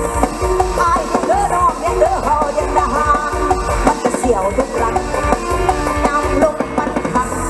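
Mor lam sing band music played loud through an outdoor sound system: a busy melody with bending notes over a steady low beat.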